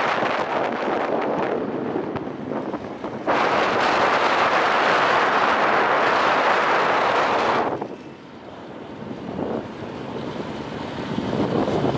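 Wind rushing over the microphone of a camera riding along on a moving bicycle. The rush jumps louder suddenly about three seconds in, holds for about four seconds, then drops off and slowly builds again.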